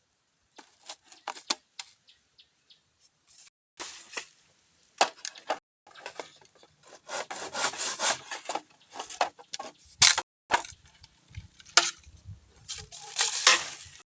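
Bamboo being cut and handled: irregular crackling, rubbing and snapping of wood. It comes in sparse ticks at first, then in denser, louder bursts from a few seconds in to near the end.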